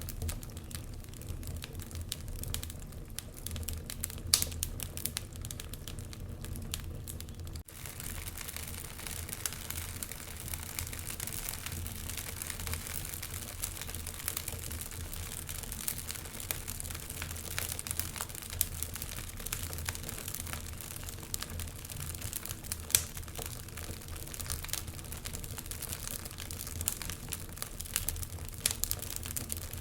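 Wood fire in a fireplace crackling: a steady hiss with many irregular snaps and pops, the sharpest about four seconds in and again near twenty-three seconds. The sound drops out for an instant almost eight seconds in.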